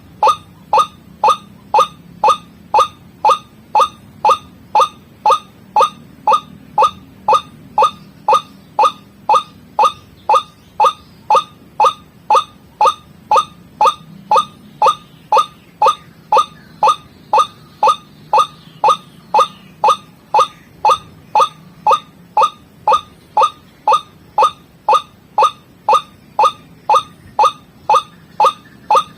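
White-breasted waterhen (ruak-ruak) calling: a steady run of short notes, about two a second, each dropping in pitch. It is a repeating lure call used to draw in waterhens.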